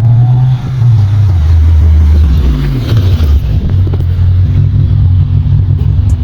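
Toyota Celica GT-S's 2ZZ-GE four-cylinder engine and exhaust running loud. The pitch dips and then climbs again about halfway through, then holds steady.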